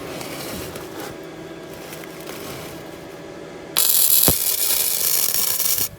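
Welding arc tacking steel exhaust pipe pieces together: a loud, even crackling hiss that starts suddenly a little under four seconds in and cuts off about two seconds later. Quieter shop noise comes before it.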